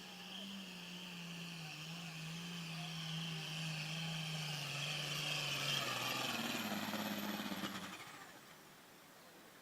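Turbo diesel pulling tractor's engine running hard under load, growing louder, with a thin high whine above it. Its note drops about six seconds in, and the sound falls away quickly shortly before eight seconds as the high whine winds down.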